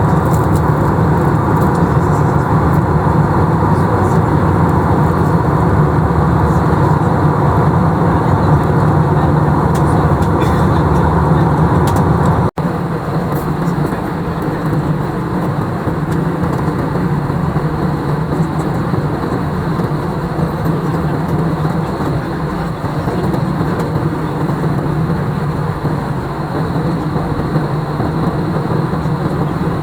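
Steady jet-airliner engine and airflow noise heard from inside the passenger cabin, with a low hum beneath. About twelve seconds in it cuts abruptly to a slightly quieter stretch of the same steady noise.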